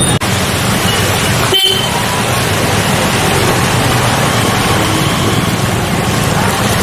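Street traffic noise with a few short car horn toots, over a steady, loud wash of sound that drops out briefly about a second and a half in.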